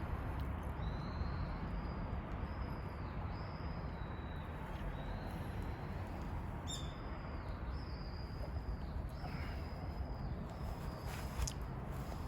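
A wild bird singing a string of short, high, even whistled notes, one after another, over a steady outdoor background hum.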